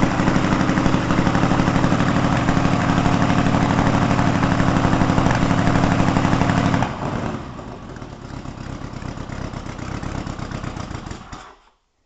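Air-cooled VW Beetle flat-four boxer engine running loud and fast, dropping sharply to a quieter, slower idle about seven seconds in, then shut off and stopping near the end.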